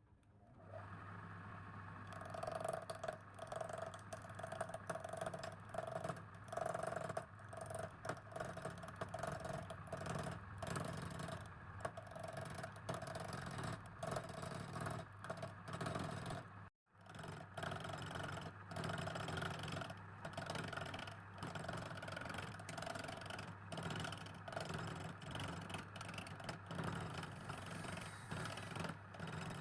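An electric machine motor runs with a steady hum, under irregular scraping and clattering from work against it. The sound builds up over the first couple of seconds and breaks off briefly just past halfway.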